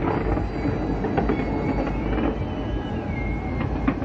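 Fireworks going off in quick succession: a continuous low rumble of booms with sharper bangs and crackles over it, and a cluster of bangs near the end.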